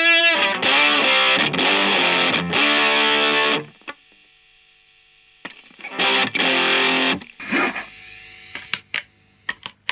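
Electric guitar on its bridge humbucker, played through the Fender Santa Ana Overdrive pedal: overdriven chords for about three and a half seconds, a short pause, then another brief run of chords that rings out. A few sharp clicks follow near the end.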